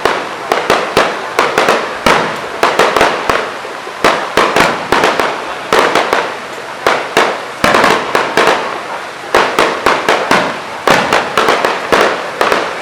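Fireworks display with shells bursting in rapid succession, several loud bangs a second mixed with crackling, and no pause.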